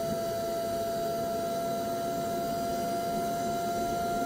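High-speed electric air pump running steadily as it inflates an inflatable boat's tubes, a constant motor hum with a steady high whine.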